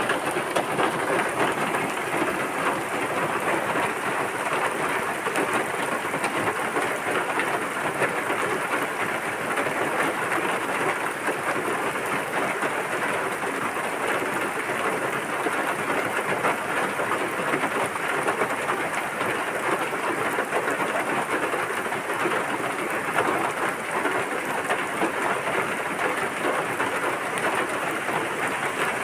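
Steady rain falling, an even dense hiss that holds without a break.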